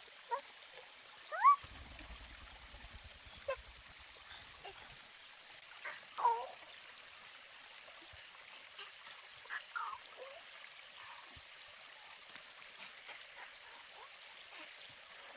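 Faint steady trickle of running water, with a few short chirp-like calls scattered through, one of them sweeping quickly upward.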